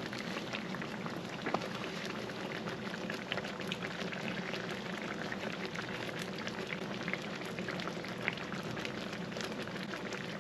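Pan sauce of wine and chicken stock simmering in a skillet, a steady hiss with many small irregular pops and crackles, still bubbling after the heat has been turned off.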